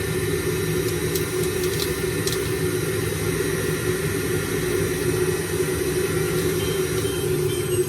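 Electric juicer motor running steadily with a constant hum while it juices dragon fruit, with a few faint ticks about a second or two in.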